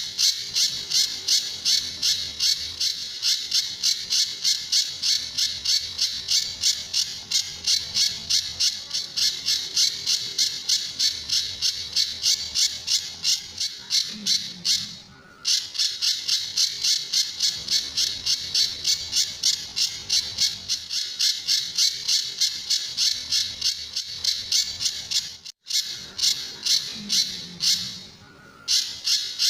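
Pijantur bird calling a fast, steady series of sharp repeated notes, about three a second, in the 'tembakan' style, in long runs with short pauses about halfway and near the end.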